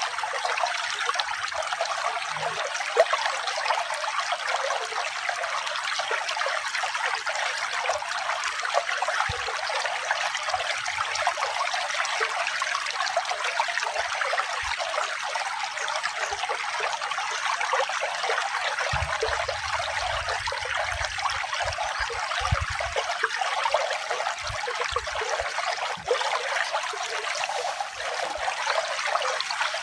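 Running water trickling and splashing in a steady, even flow, with no music over it.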